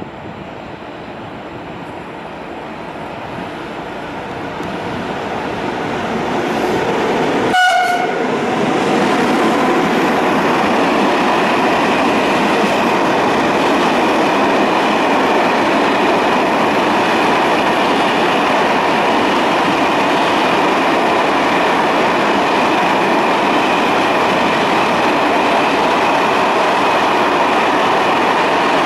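An E652 electric locomotive hauling a freight train approaches, growing steadily louder, and gives one short horn blast about eight seconds in. The long train of Eanos wagons then rolls past with a steady rumble and clatter of wheels on rails.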